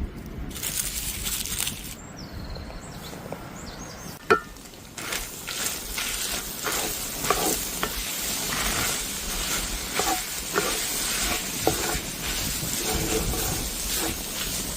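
Food sizzling and frying in a pan over a campfire, with one sharp knock about four seconds in, after which the sizzling becomes a dense, steady crackle with many small pops.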